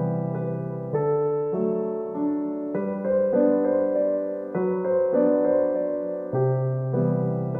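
Gentle, slow solo piano music, with chords struck and left to ring, changing about every second.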